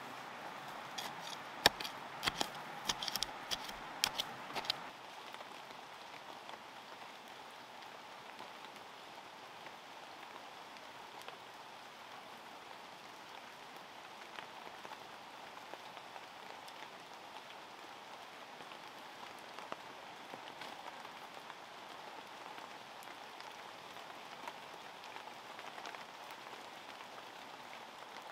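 Rain falling steadily. In the first few seconds there is a quick run of about a dozen sharp knocks or taps, the loudest sounds heard.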